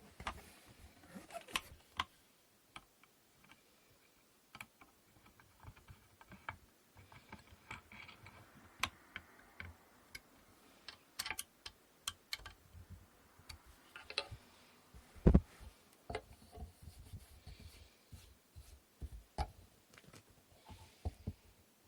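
Wooden inkle loom parts being handled and fitted together: irregular light clicks and taps of wood on wood, with one sharp, louder knock about fifteen seconds in.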